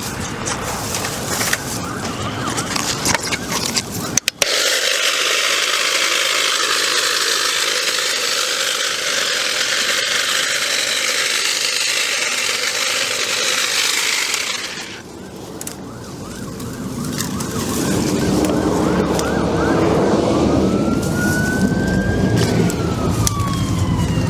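A battery-powered electric cutting tool runs steadily through brush and vines for about ten seconds, starting and stopping abruptly. Near the end a fire truck siren wails, rising and falling in pitch.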